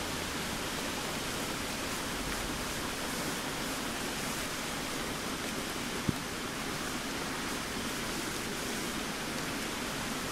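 Steady hiss of rain falling on the forest floor and leaves, with a single small click about six seconds in.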